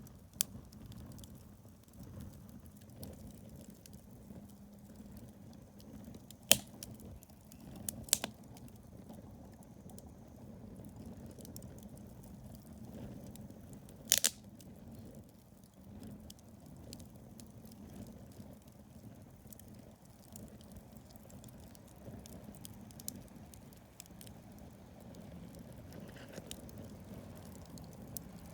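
Wood campfire burning with a low, steady rush of flame and a soft crackle. Sharp pops from the burning wood come about six seconds in, twice around eight seconds, and loudest around fourteen seconds.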